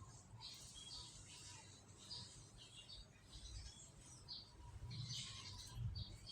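Domestic canaries chirping faintly in short, scattered calls.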